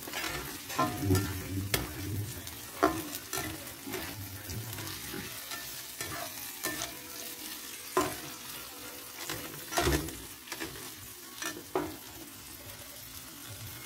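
Diced pork with garlic and tomato sizzling in oil in a nonstick frying pan while being stirred, the spatula knocking and scraping against the pan at irregular moments over a steady frying hiss.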